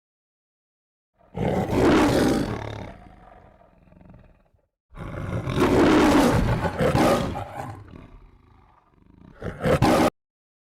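Three rolls of thunder. The first two are long rumbles that fade slowly; the third is a short clap, cut off abruptly near the end.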